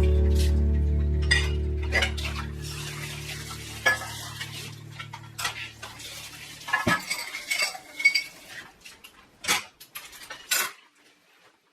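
Dishes and cutlery clinking and knocking in a dozen or so short, separate strikes, while background music fades away over the first few seconds.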